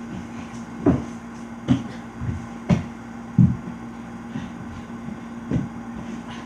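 A series of dull thumps and knocks, about six of them at uneven intervals, from children stepping and climbing across furniture, over a steady low hum.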